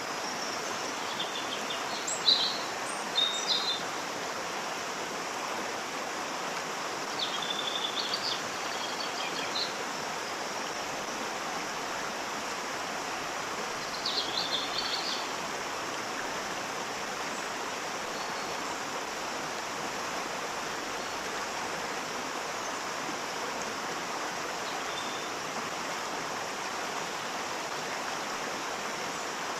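Waterfall with a steady, even rush of falling water. Birds chirp in short runs over it a few times in the first half.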